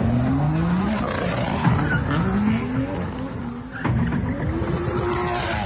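Car engine accelerating hard, its pitch rising in three pulls with short drops between, as at gear changes.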